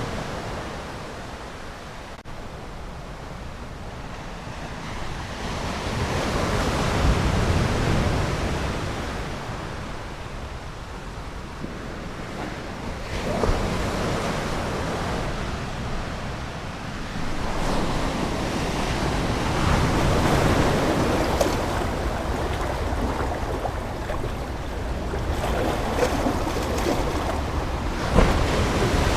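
Ocean waves washing onto a shore, a steady rush that swells and recedes every few seconds, with surges at about seven seconds, thirteen seconds, twenty seconds and near the end.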